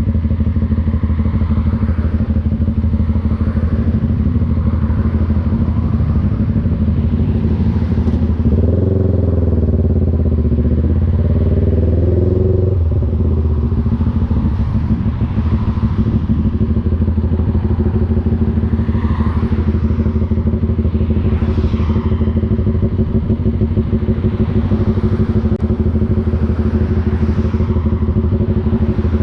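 CFMoto NK400's two-cylinder engine running under way. The engine note rises and falls for a few seconds about nine seconds in, then settles back to a steady pitch.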